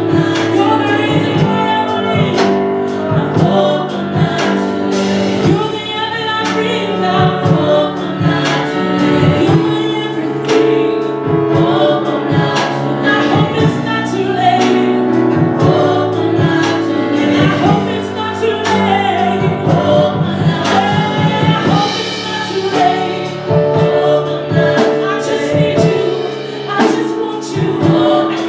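Gospel choir singing with a live band, with steady drum hits underneath.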